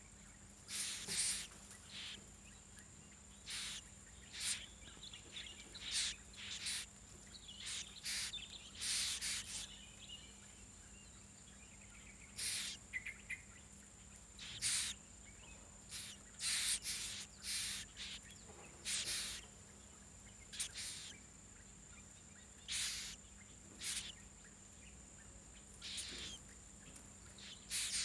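A bird giving short, harsh calls, about twenty of them at irregular intervals, over a steady high-pitched insect-like whine.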